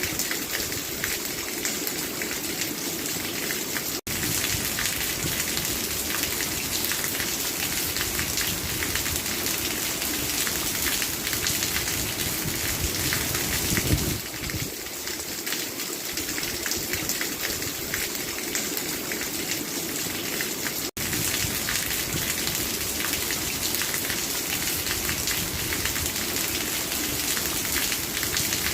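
Steady rain falling, an even dense hiss of drops. It cuts out for an instant about four seconds in and again about twenty-one seconds in, and a short low thump sounds near the middle.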